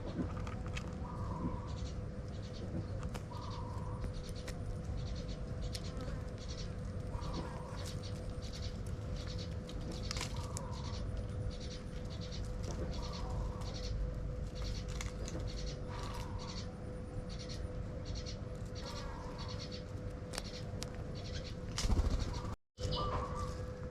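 Birds calling at a feeding spot: a short, low call repeats every couple of seconds over many quick, high chirps. Under them run a steady hum and a low rumble, and all sound drops out briefly near the end.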